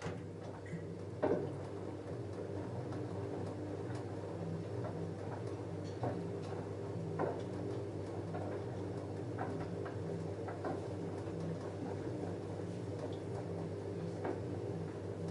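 LG F10A8HDS5 front-loading washing machine running a load of jeans: a steady hum with scattered clicks and knocks, the loudest about a second in.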